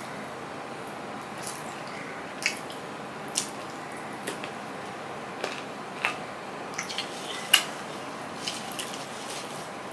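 Close-miked eating: wet mouth clicks and lip smacks from chewing rice and fish by hand, coming at irregular moments, the loudest about seven and a half seconds in, over a steady hiss. Near the end, fingers mix rice on a steel plate.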